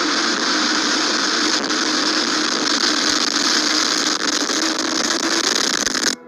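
Loud, steady rushing noise of storm wind and rain in tornado-chase footage, with a faint vehicle hum under it; it cuts off suddenly near the end.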